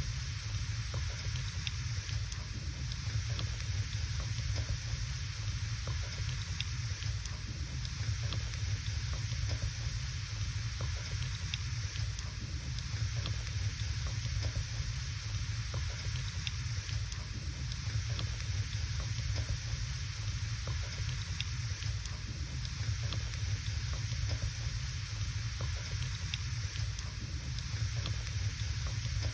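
Wood fire burning in a fireplace: a steady hiss and low rumble with small, scattered crackles and pops from the burning logs.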